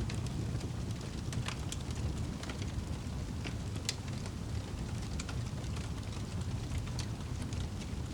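Wood fire burning in a fireplace: a steady low rumble of flames with scattered sharp crackles and pops, the loudest about four seconds in.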